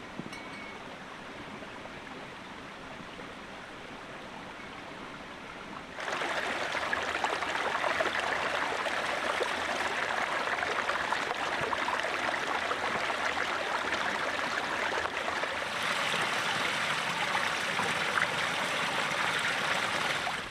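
Running water, a steady rushing with no distinct events, which steps up abruptly and becomes much louder about six seconds in.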